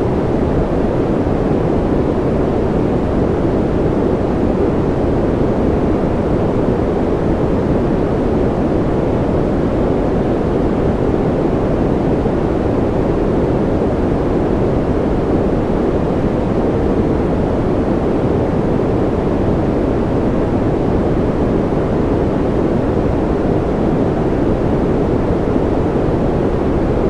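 Steady white noise for lulling a baby to sleep: an even, unbroken rush that is deep and muffled, with little hiss at the top.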